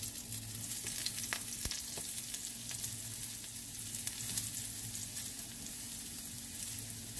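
Eggplant pieces sizzling as they fry in oil in a pan: a steady crackling hiss with a few sharp clicks.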